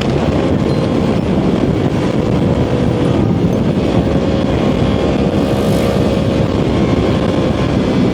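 Yamaha R1 sport motorcycle cruising at steady highway speed, the engine holding a constant note under heavy wind and road noise.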